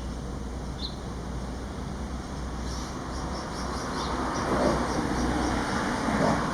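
Road traffic running steadily, with a vehicle passing louder in the second half. From about three seconds in, a faint run of quick, even high chirps sounds over it.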